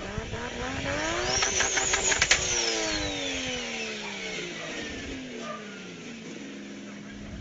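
Car engine and exhaust revving once. The pitch climbs for about two seconds, a few sharp cracks come near the top, and then it falls slowly back over the next four or five seconds.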